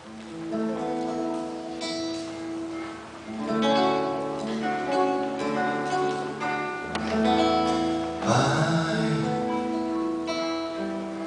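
Background music: an acoustic guitar playing plucked and strummed chords, with a bass line joining about two-thirds of the way through.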